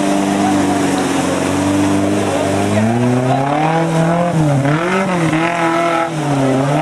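Off-road trial 4x4's engine running at steady revs, then from about three seconds in revving up and down repeatedly as it works under load climbing a steep muddy bank.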